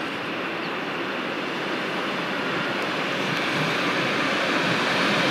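Electric commuter train approaching along the track, its steady running noise of wheels and traction motors growing gradually louder.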